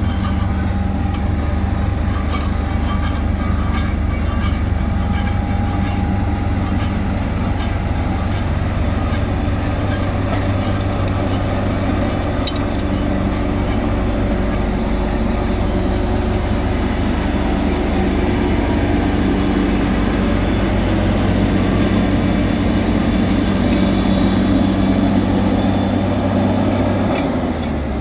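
Diesel engines of heavy road-paving machinery running steadily with a low drone. A second engine tone joins partway through.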